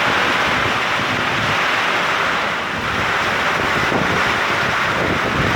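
Torrential thunderstorm rain pouring down as a steady, loud hiss, with strong wind gusts buffeting the microphone.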